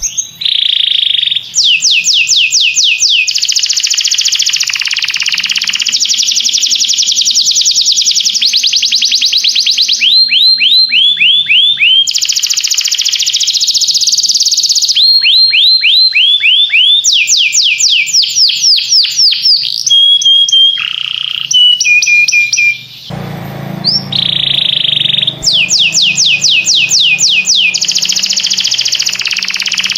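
Domestic canary singing loudly: a long song of fast trills, each phrase a rapid run of the same high sweeping note repeated many times a second before switching to a new phrase. There is a short break in the song a little past two-thirds of the way through.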